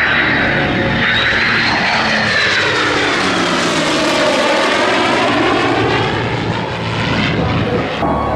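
An airplane flying past low and loud, its engine pitch falling as it goes by.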